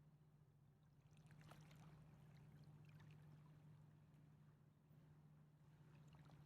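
Near silence: faint small splashes and ticks of river water lapping, busiest a second or so in, over a steady low hum.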